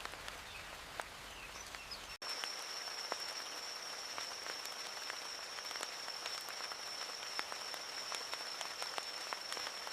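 Rain falling, a steady patter with scattered individual drips. From about two seconds in, a thin high-pitched steady whine runs alongside it.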